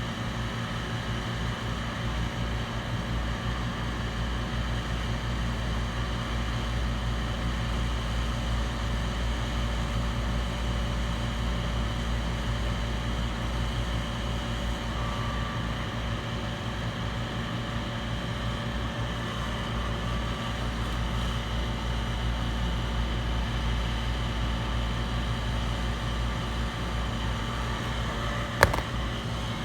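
Steady low machine hum with an even fan-like hiss and faint steady tones above it, and a single sharp click near the end.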